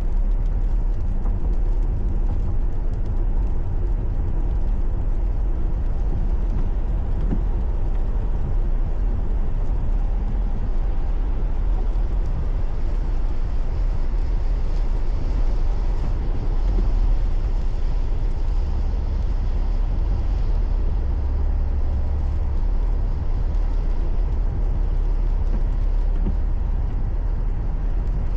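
Steady low rumble of a car being driven, picked up inside the cabin: engine and tyre noise on the road, with no sudden events.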